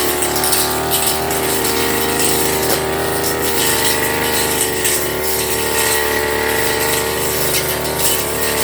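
Firman FGB389FI petrol brush cutter engine running steadily at high revs, a continuous whine that wavers slightly in pitch.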